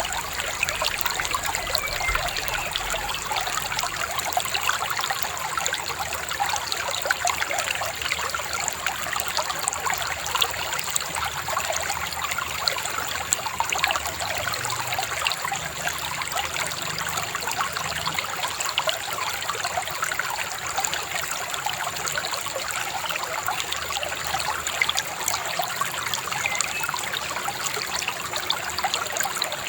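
Shallow river babbling and trickling over stones, a steady splashing rush.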